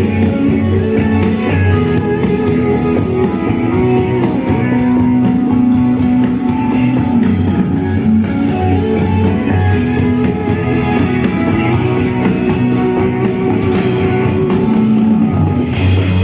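Rock music: guitars and a drum kit playing over a steady low beat.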